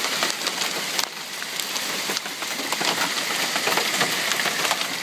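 Hailstones hammering on a car's roof and body, heard from inside the car: a dense, steady clatter of many separate hits.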